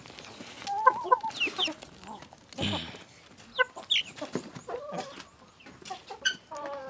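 A flock of kienyeji (indigenous village) chickens clucking and calling as they feed, with short scattered calls and a longer call near the end.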